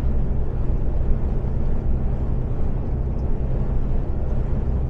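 Iveco Stralis 510 truck's six-cylinder diesel engine and road noise heard from inside the cab while cruising, a steady low drone.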